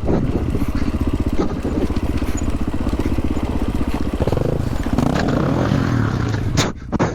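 Dual-sport dirt bike engine running under load with fast, even firing pulses; its pitch shifts up and down a little past the middle as the throttle changes. A sharp knock or clatter near the end.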